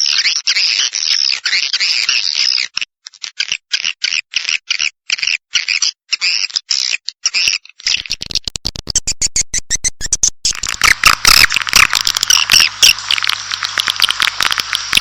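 Swiftlet call recording of the kind played from swiftlet houses to lure the birds in: dense, high twittering chirps with short breaks in the first half. About eight seconds in, a rapid train of clicks takes over, then thicker twittering mixed with clicks.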